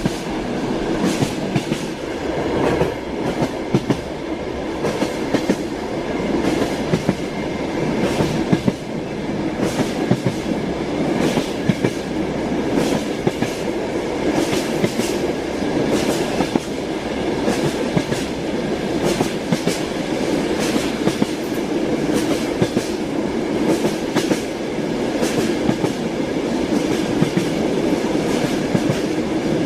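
Train wheels clicking over rail joints in a steady, frequent clickety-clack over the continuous rumble of a moving railway carriage, heard from inside the carriage.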